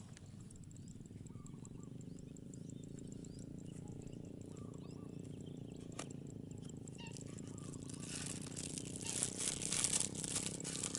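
Birds chirping over a steady low drone. From about eight seconds in, a dense crackling rattle grows louder and becomes the loudest sound.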